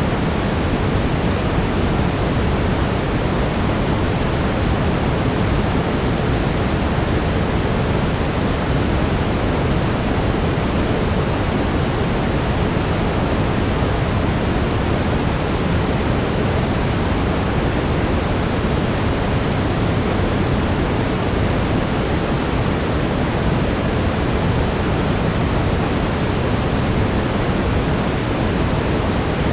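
Steady brown noise, heaviest in the low end, with a faint steady tone near 432 Hz running beneath it.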